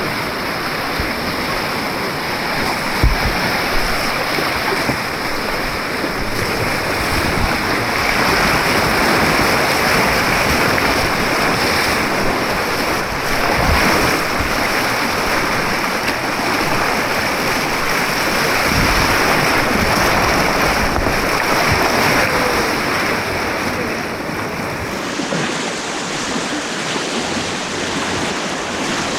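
Rushing white water of an artificial rapids course: a loud, steady roar of churning water close around the kayak, with a couple of brief knocks.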